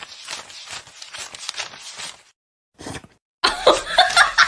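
Quick, irregular scratchy rustling that stops about two seconds in. A short rustle follows, and near the end a louder voice-like sound begins.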